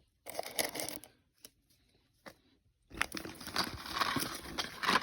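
Firework packaging crinkling and rustling as items are handled and unpacked, in two stretches with a near-silent gap between them and a single sharp click a little over two seconds in.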